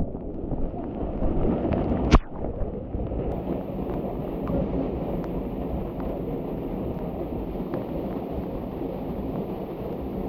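Steady rushing of the canyon's mountain stream, a dull, even noise. A single sharp knock comes about two seconds in.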